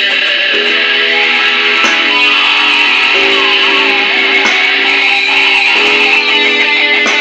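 Electric guitar playing a blues in three-four time through a Digitech effects processor, sustained chords changing every one to two seconds.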